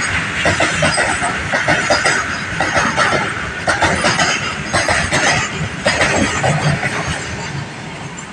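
Goods train passing, its wagons clattering and clacking over the rail joints, fading away near the end.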